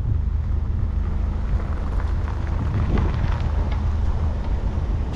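Wind buffeting the microphone of a camera carried on a moving electric bike, a steady low rumble, with a few faint ticks about two to three seconds in.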